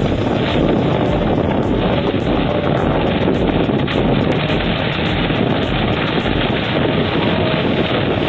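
Bulldozer's diesel engine running hard and steady, with a fast, even rattle.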